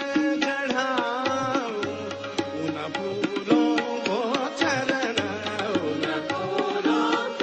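Indian devotional bhajan music between sung lines: tabla strokes keep a steady beat over a held drone while a melody instrument plays a gliding, ornamented line.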